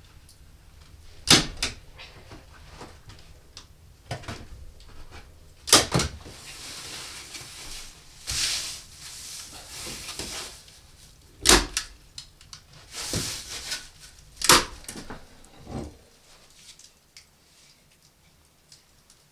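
Handling sounds in a small wooden room: a handful of sharp knocks and bumps a few seconds apart, with rustling between them in the middle.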